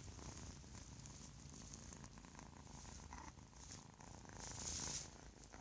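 Young domestic kitten purring faintly and steadily, with a short louder burst of noise about four and a half seconds in.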